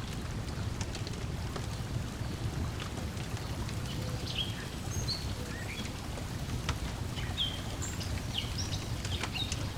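Lakeside ambience: a steady low wash of water lapping, with the sharp pops of a crackling wood fire scattered through it. Short, high bird chirps join about halfway through and come several times toward the end.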